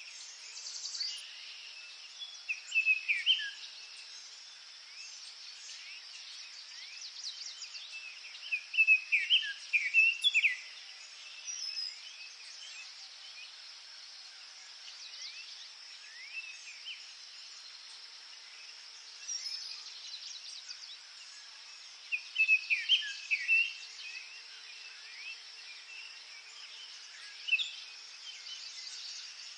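Forest ambience: songbirds singing in scattered bursts of short, quick phrases, loudest about a third of the way in and again about three-quarters through. Under them runs a steady high hiss.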